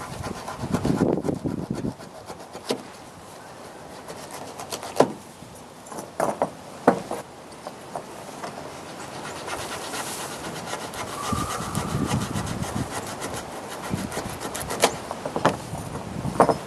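Hand work with a knife: rubbing, scraping and sawing strokes with scattered sharp clicks and knocks.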